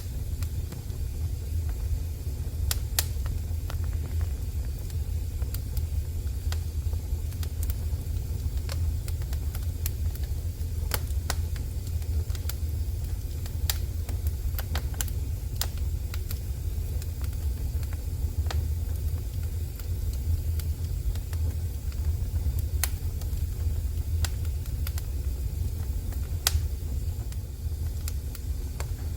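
Wood fire burning in a fireplace, with scattered sharp crackles and pops at irregular intervals over a steady low rumble.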